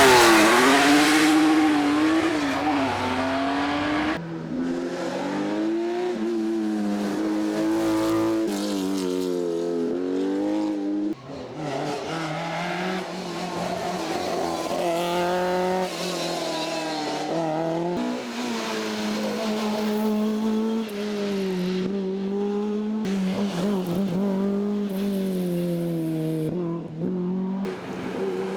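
Rally car engines revving hard through the gears as a series of cars drive past on a stage. Their pitch climbs, drops at each shift, and climbs again, and the sound changes abruptly every few seconds from one car to the next. A close, loud pass opens it.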